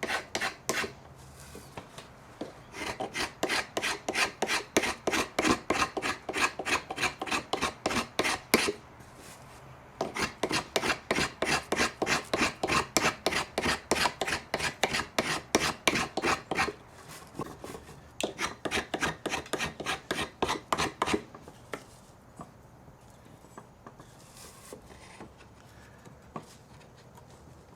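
Hand file worked in quick back-and-forth strokes, about three a second, in three long runs with short pauses between them. After the third run stops, only faint scraping remains.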